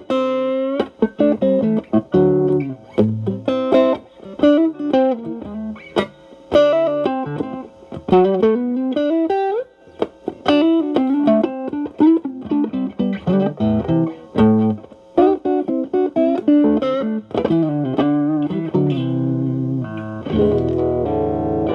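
Fender Stratocaster played through a Xotic AC Plus overdrive pedal, both channels stacked, into a Marshall Valvestate amp, with the drive cleaned up: improvised single-note lead lines with string bends and slides, moving to fuller chords near the end.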